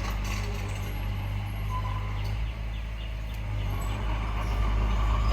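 Heavy diesel earthmoving machinery running steadily with a low engine drone that grows a little louder near the end.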